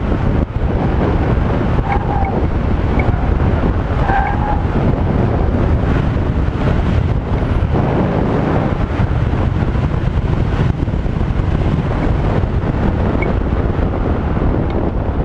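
BMW E46 M3's 3.2-litre inline-six running under hard acceleration and lifting through an autocross course, with heavy wind buffeting on a microphone mounted outside the car. Brief tyre squeals come about two seconds and about four seconds in.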